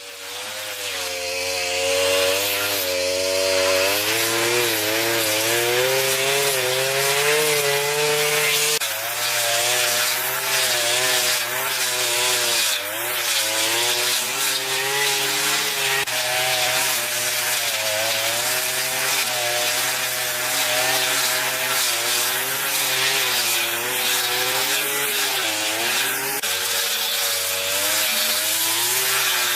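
Saw cutting through wood, a continuous pitched whine that wavers up and down as the cut goes on.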